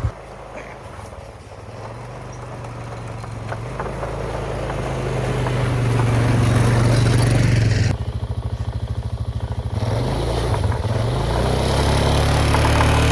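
Quad (ATV) engine running, growing louder over the first six seconds, dropping off suddenly about eight seconds in and building again.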